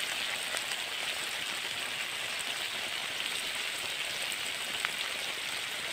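Pork frying in a pot over a campfire: a steady sizzling hiss with a few faint ticks.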